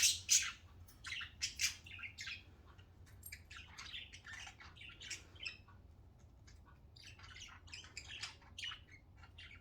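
Pet budgerigars chirping and squawking in short, scattered calls, loudest in the first half second.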